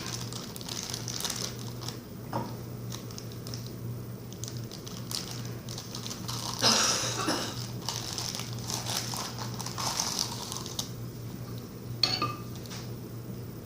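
Rustling and scattered light knocks and clinks from handling a bag of flour and kitchen utensils while measuring it out, with a sharp tick near the end, over a steady low hum.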